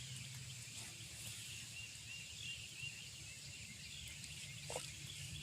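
Faint outdoor insect chorus: a steady high-pitched trill with short chirps repeating over it, and a low hum underneath.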